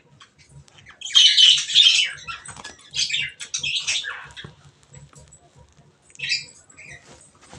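Lovebirds calling with harsh, shrill squawks and chatter. The loudest bursts come about a second in and again about three seconds in, with a shorter call near the end.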